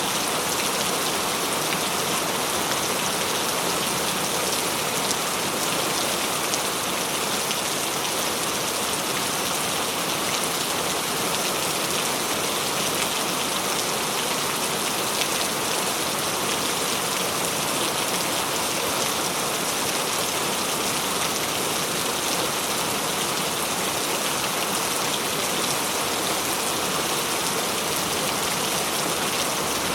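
Heavy rain falling steadily, an even hiss of many drops striking a surface.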